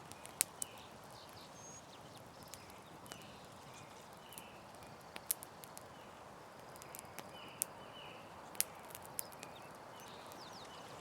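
Campfire crackling: a steady soft hiss broken by irregular sharp pops and snaps, with short high chirping calls every second or so behind it.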